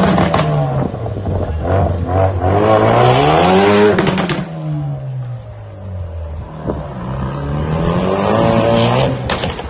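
Ford Focus RS with a custom exhaust accelerating hard, the engine note climbing with the revs, easing off about four seconds in, then climbing again. A couple of sharp cracks stand out over the engine.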